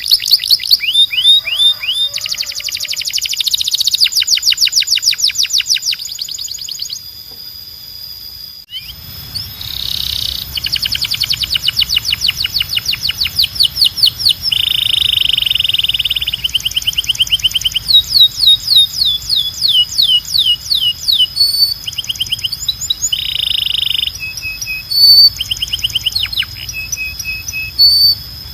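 Belgian canary singing: fast trills of repeated notes, falling sweeps and buzzy rolls in quick succession. A splice to another recording comes about a third of the way in, bringing a faint low hum under the song.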